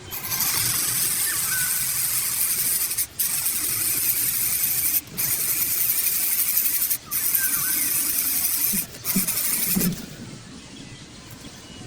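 Angry bird hissing in long, even breaths of about two seconds each with brief pauses between them, stopping about ten seconds in; a few faint chirps sound in between.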